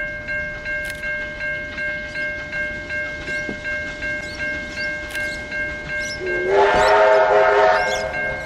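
Train running with a steady rhythmic beat about three times a second, and a train whistle blowing for nearly two seconds about six seconds in, the loudest part.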